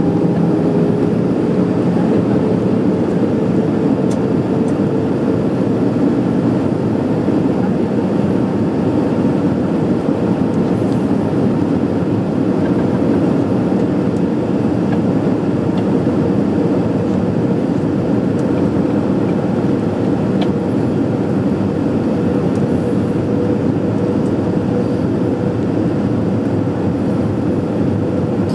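Airbus A320 heard from inside the cabin over the wing in flight: a steady rush of engine and air noise with a humming engine tone that rises slightly in pitch near the start.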